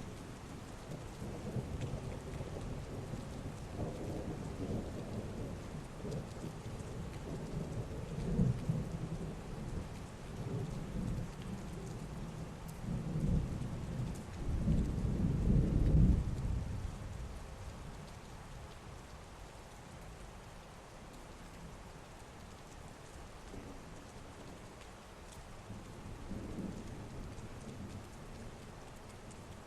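Steady heavy rain with rolling thunder. The deep rumble swells through the first half, loudest about halfway in, then dies away, leaving the rain with a faint distant rumble near the end.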